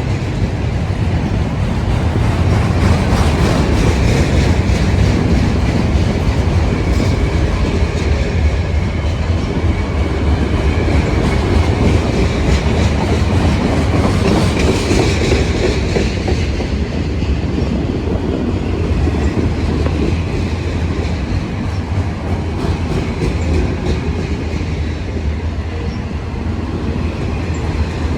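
Train rolling past, its wheels rumbling steadily with a clickety-clack over the rail joints.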